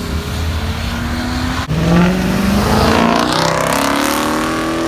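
A car engine revving loudly, with a short break about a third of the way in and then a climbing pitch through the second half.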